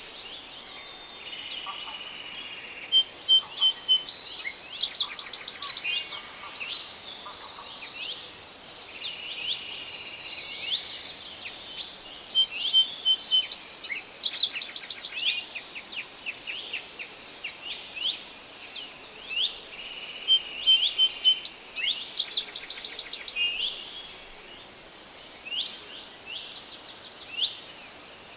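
Several songbirds singing at once in a forest: overlapping chirps, quick trills and short whistled phrases, over a faint steady hiss.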